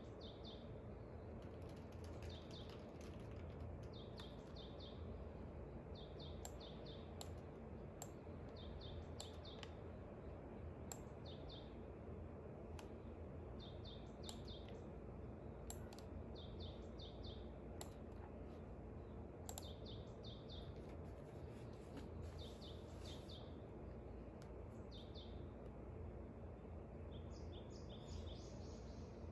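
Small birds chirping in short runs of three or four high notes, repeating every second or two, over a steady low background hiss, with scattered faint clicks.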